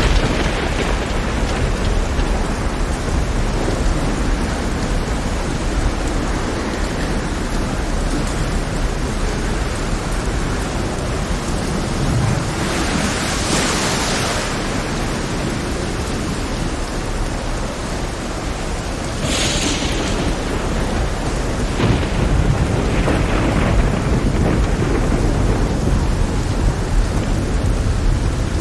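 Heavy rain with a steady low rumble of thunder. Two brief hissing surges come near the middle, and the storm grows louder for the last third.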